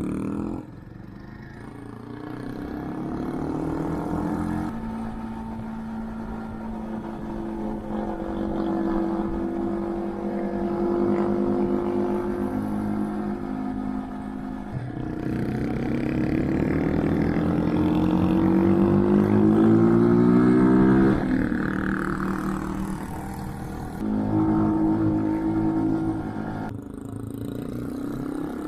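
Brixton motorcycle engine under way, accelerating and shifting through the gears. The revs climb and drop back at each shift, with steady cruising stretches between. Around halfway there is a long pull that rises in pitch before the revs fall away.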